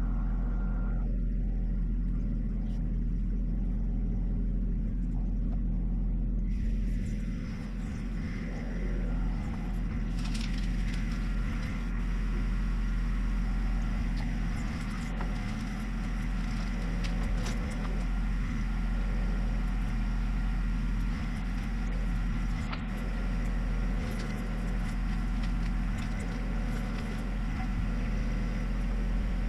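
John Deere 1025R subcompact tractor's three-cylinder diesel engine running steadily, with more clatter and noise joining from about six seconds in.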